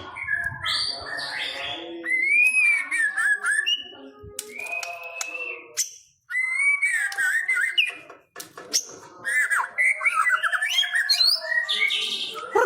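White-rumped shama (murai batu) singing a varied song of loud whistled phrases, rising and falling notes and sharp chips. The song breaks off briefly twice midway.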